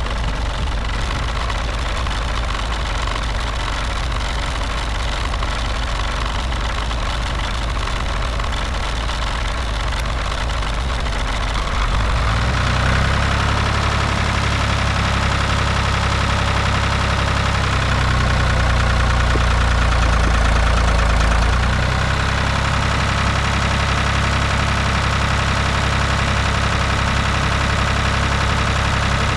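Tractor engine running steadily, then working harder for about ten seconds from about twelve seconds in before settling back, as it tries to move back out of deep snow.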